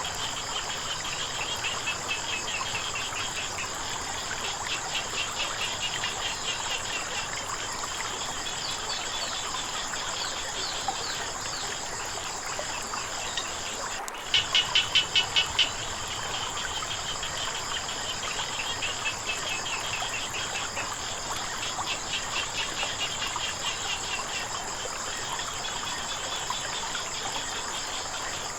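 A chorus of frogs giving trains of rapid pulsed calls, over a steady high insect trill and the hiss of running water. About halfway through, the sound drops out for an instant, then a frog calls loudly in a quick run of pulses.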